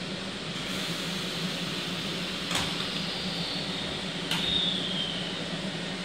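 Steady hum of a standing JR Shikoku 8000 series electric train, with two sharp knocks about two and a half and four and a half seconds in, the first as its cab side door is shut. A faint falling squeal follows the second knock.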